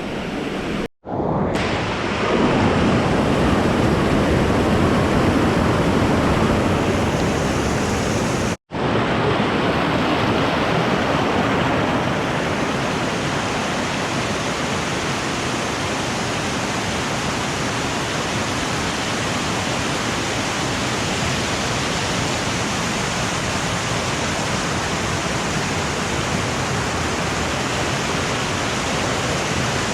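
Waterfall: a steady rush of falling water, cut off briefly twice, about a second in and again near nine seconds, and a little quieter after about twelve seconds.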